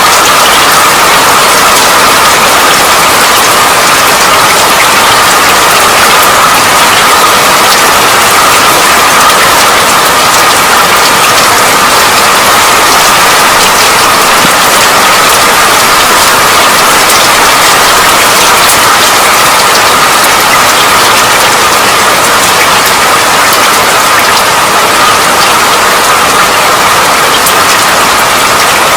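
Steady rain falling: a dense, even patter of drops that does not change.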